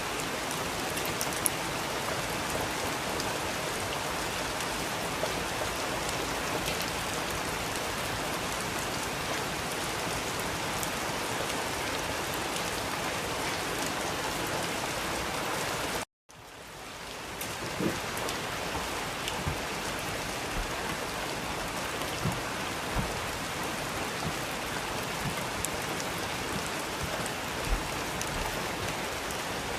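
Steady rain falling, an even hiss scattered with individual drop ticks. About halfway through it cuts out for an instant and fades back in, after which a few heavier drops knock more distinctly.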